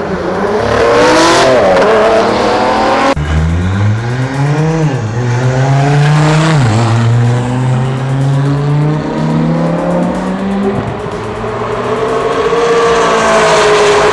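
Car engine revving hard, its pitch climbing and dropping several times, with an abrupt change of shot about three seconds in.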